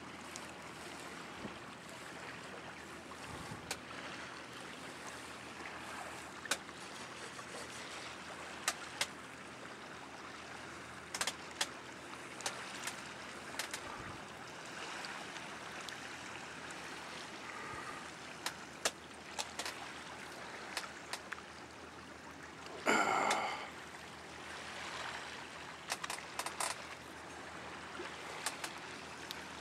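Water lapping and trickling around a kayak, with scattered small splashes and clicks. About three-quarters of the way through there is one short, loud, pitched call.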